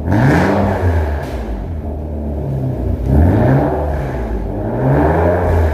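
Kia K7 3.5 V6 through a custom JSR aftermarket exhaust, blipped from idle twice, about three seconds apart, the exhaust note rising and dropping back each time over a steady low drone.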